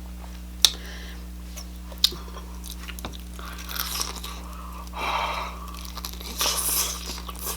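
Close-miked eating: a person biting into and chewing crunchy food, with a couple of sharp clicks early and then bursts of crunching chews. A faint steady electrical hum lies underneath.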